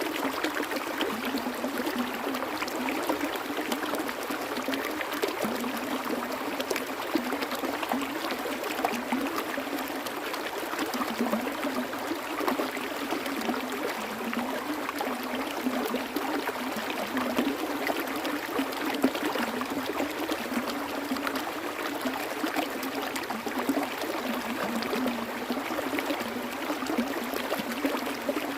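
Water flowing steadily, an even rush with fine trickling texture and no deep rumble.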